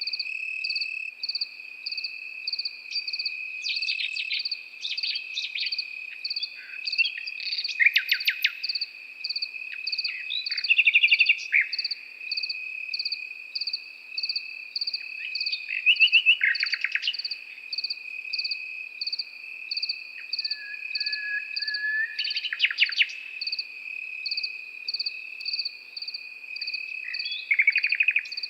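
Nightingale singing in short, varied phrases of rapid repeated notes and whistles every few seconds, over crickets: a steady high trill and an even chirping about twice a second that never stop.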